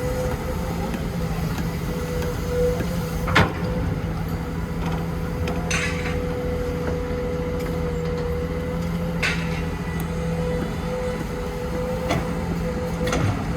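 Heavy construction machine's diesel engine running steadily, with a few sharp metallic knocks scattered through it.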